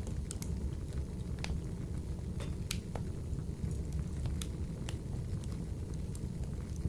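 Wood fire burning in a wood-burning stove, with irregular sharp crackles and pops over a steady low rumble of the flames.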